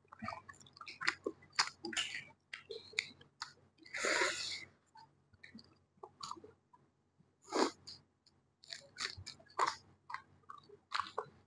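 Close-miked chewing and wet mouth smacks of a person eating rice and curry by hand, many short clicks in an uneven run. About four seconds in there is a longer, louder breathy noise.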